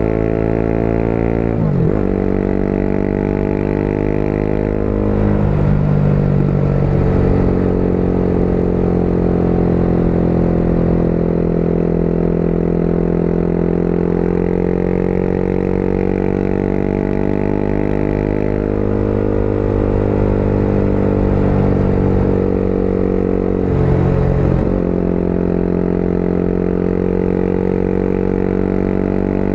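Motorcycle engine running under way, its note shifting abruptly about two seconds in, around six seconds in and again near the end, with rushing noise behind it.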